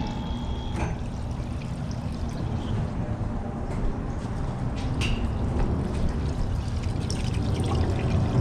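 Rumble of an aircraft passing nearby, growing steadily louder, with a few light clicks of tools being handled.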